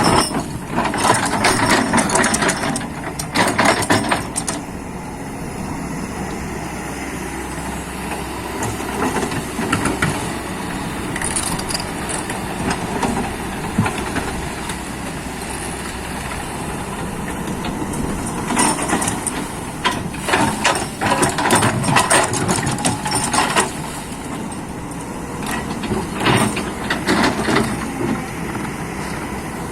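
Heavy excavator engine running steadily under load, with bursts of clattering and scraping near the start and again about two-thirds of the way through.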